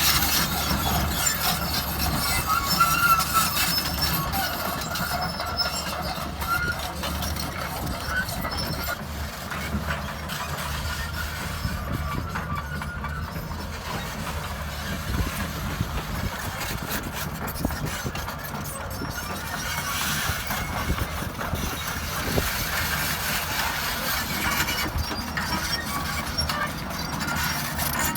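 Hydraulic excavator's diesel engine running steadily, with metallic squeaks and clatter from the machine, the squeaks clearest in the first several seconds.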